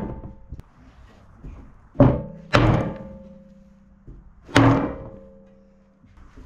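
A hammer striking a metal part of a generator three times, about two, two and a half and four and a half seconds in. Each blow leaves a ringing tone that fades slowly.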